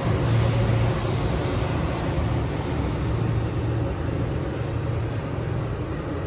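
Metrolink commuter train pulling away: the diesel locomotive's low engine drone and the rumble of the cars on the rails, slowly fading.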